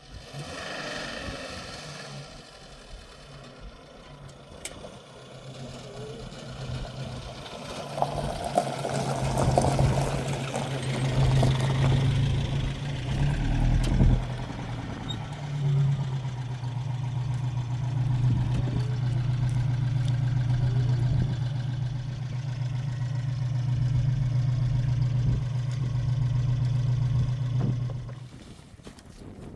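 An engine running steadily with a low hum, growing louder after a few seconds, with some clatter for a while, then cutting off suddenly near the end.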